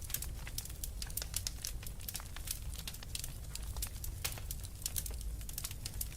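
Wood fire crackling, with many sharp irregular pops over a steady low rumble.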